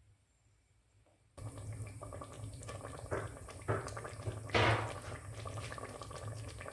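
Near silence for about a second and a half, then chicken curry sauce bubbling as it simmers, over a steady low hum, with a few louder hissing splashes about three to five seconds in.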